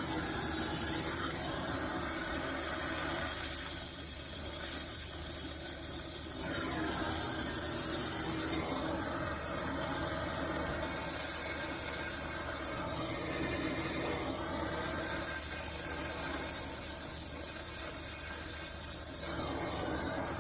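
Brazing torch flame hissing steadily while a copper refrigerant joint on the coil's stub is brazed.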